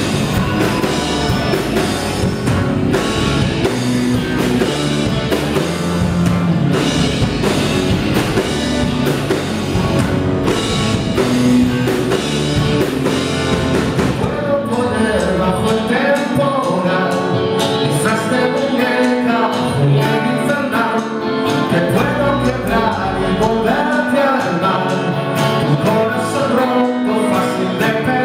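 A rock band playing a song live, with a drum kit keeping the beat; about halfway the low end thins and a melody bending in pitch comes forward.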